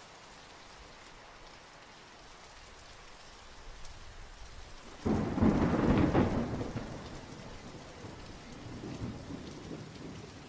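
Steady rainfall with a roll of thunder that breaks out suddenly about halfway through and rumbles away over a few seconds.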